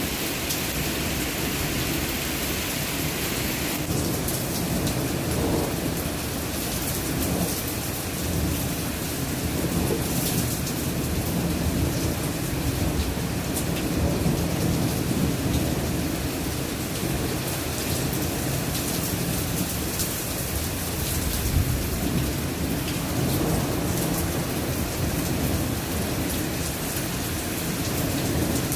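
Heavy rain pouring steadily, with a deep, rumbling low undertone and scattered faint sharp ticks; a higher hiss in the rain eases off about four seconds in.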